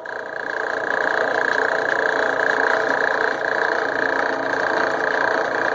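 Small drill press switched on and running steadily, its bit drilling into a Damascus steel billet; the motor comes up to speed over the first second and then holds a steady high whine.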